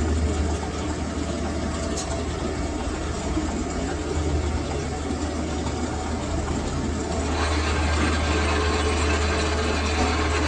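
Lathe machine running in a workshop: a steady low motor hum under a rough mechanical noise. About seven seconds in the noise grows brighter and a little louder.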